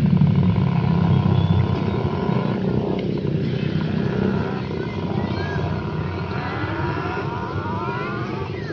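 Motorbike engine running steadily, loudest for the first couple of seconds and then easing off, with a rising whine near the end as it revs.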